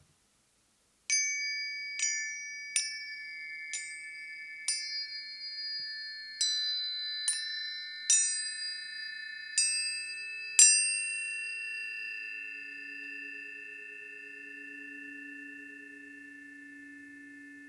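Planetary tuning forks struck one after another, about ten strikes in the first eleven seconds, each leaving a clear ringing tone. The tones overlap into a lingering chord that slowly fades. It begins after about a second of silence.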